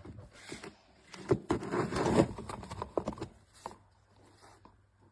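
Handling noises: a cluster of sharp knocks, taps and rustles starting about a second in and lasting about two seconds, then a few faint clicks.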